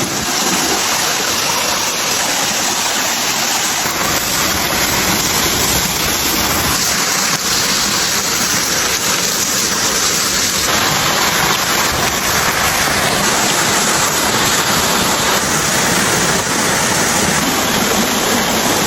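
Steady, loud rushing hiss, even and unbroken, like running water.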